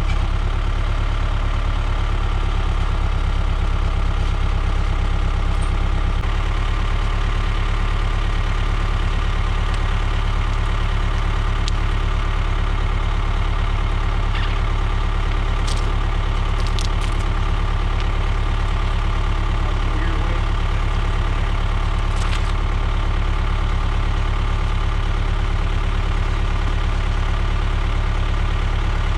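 Woodland Mills HM126 portable band sawmill's gas engine running steadily, its note shifting slightly about six seconds in, with a few faint ticks later on.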